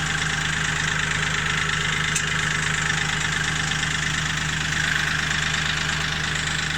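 Kioti CK 3510 compact tractor's diesel engine running steadily, with a single short click about two seconds in.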